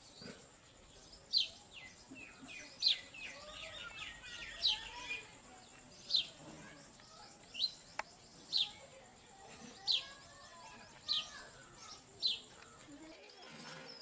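A small bird calling with short, sharp, high notes that drop in pitch, nine of them about every second and a half, over fainter chirping and a faint steady high tone.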